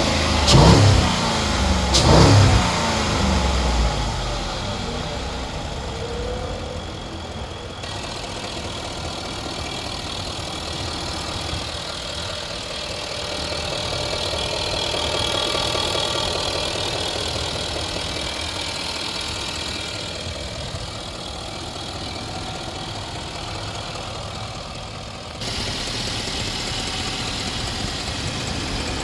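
A 2011 Range Rover Sport's V8 engine running: two quick surges in revs that fall away in the first few seconds, then a steady idle.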